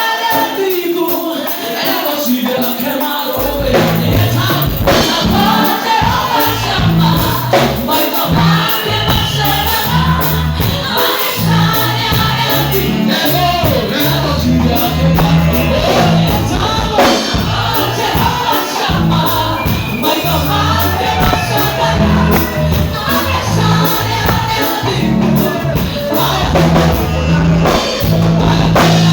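Gospel music with group singing and tambourine; a bass line comes in about three seconds in and carries on under the voices.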